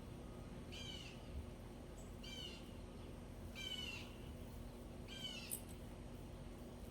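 A bird calling four times, about a second and a half apart, each call short and falling slightly in pitch.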